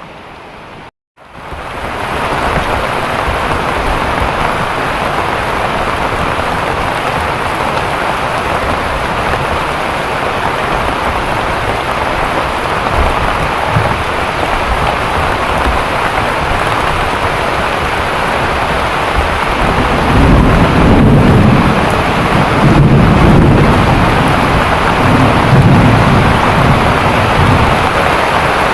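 Heavy rain pouring steadily. Rolls of thunder rumble through it in the last third.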